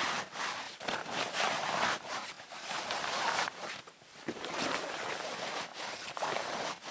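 Footsteps crunching through snow, an uneven series of crunches with short pauses.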